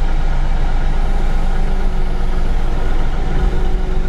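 Bobcat CT5555 compact tractor's diesel engine idling steadily while its loader hydraulics, fed by a newly replaced pump, work to lift a load at idle. A higher steady tone joins the engine sound about two seconds in.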